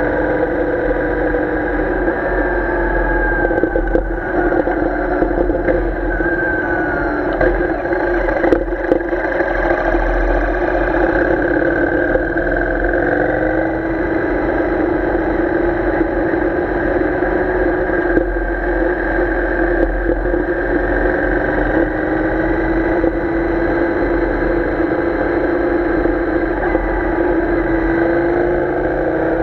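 Royal Enfield Interceptor 650's parallel-twin engine running steadily while riding at moderate speed, its note rising and falling gently with the throttle. The note climbs in the last few seconds as the bike accelerates.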